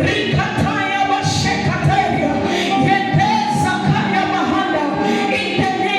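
Voices singing a song over instrumental music accompaniment.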